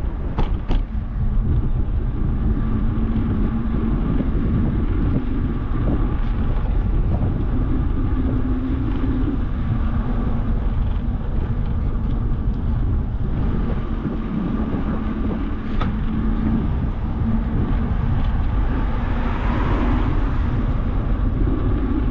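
Wind rumble on the microphone of a moving bicycle, with road traffic going by. A few sharp clicks come near the start, and a hiss swells and fades near the end.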